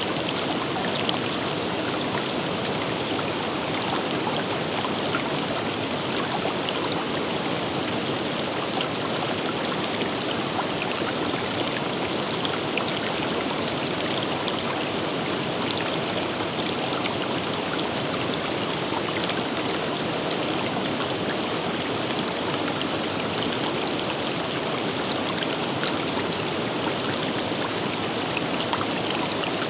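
River water flowing steadily over rocks, an even rush with fine splashing and babbling.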